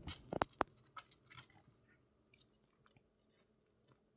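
Three-week-old kittens eating wet kitten food: small wet chewing and smacking clicks, busy in the first second and a half, then only a few faint ticks.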